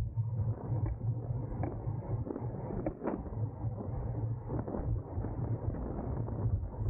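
Wind buffeting the microphone of a camera on a racing bicycle riding at speed, a constant low rumble, with faint road and drivetrain noise and scattered light clicks.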